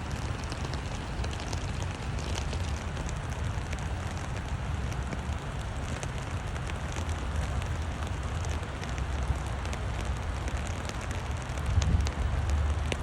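Steady rain falling, with scattered sharp drop ticks, under a low rumble of wind on the microphone that swells near the end.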